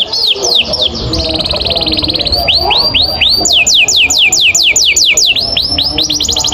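Domestic canary singing a long rolling song. Repeated sweeping notes, about five a second, run into a very fast trill between about one and two seconds in, then return as new phrases of sweeping notes that shift higher in pitch.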